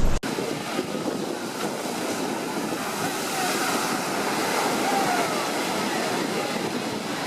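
Sea waves washing and wind blowing across the microphone in a steady rush.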